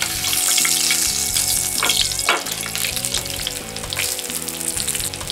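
Egg-battered sandwich frying in butter and oil in a pan, sizzling steadily, with a few short scrapes and knocks as a spatula lifts it to be turned.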